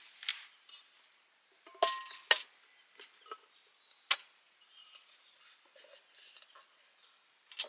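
Sparse light clicks and clinks of small hard objects being handled, the loudest a few seconds in, one with a brief ringing tone.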